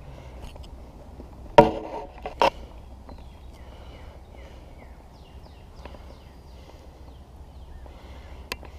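Two hard knocks close together, the first loud with a short hollow ringing, as of something striking a hollow hull. Then a bird calls in a run of short, quick falling chirps over a steady low background rumble.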